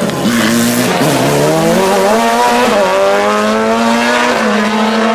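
Hill-climb race car engine under hard acceleration, its pitch climbing steadily through the revs with a brief dip near the start and a small hitch partway through, then holding near the end.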